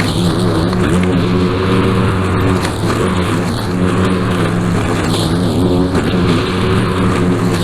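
Small gasoline engine of lawn equipment running steadily at working speed, its pitch wavering slightly.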